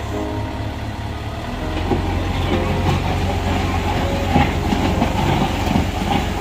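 Bulldozer at work: its diesel engine running, with steel crawler tracks clanking and squeaking. The engine grows louder about a second and a half in.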